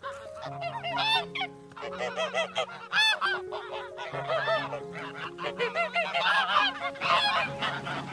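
A flock of birds calling: many short, overlapping honking calls, busier in the second half.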